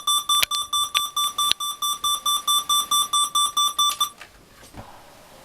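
Electronic alarm clock beeping: a rapid train of short, high beeps, about four a second, that stops about four seconds in, with a few sharp clicks among the beeps.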